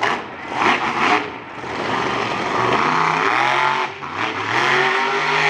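Monster truck engine revving hard, a few short throttle blips and then two long rises in pitch as the truck is driven.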